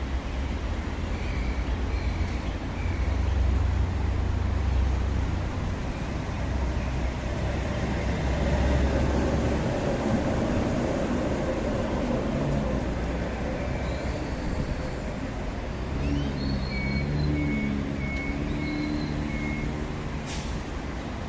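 Concarril/Bombardier TE-95 light rail train running, a steady rumble with a strong low hum, joined by short high-pitched tones and a few steady lower tones toward the end.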